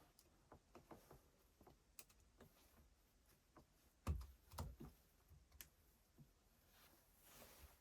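Faint clicks and light knocks of small parts and tools being handled on a workbench, with two heavier knocks about four seconds in.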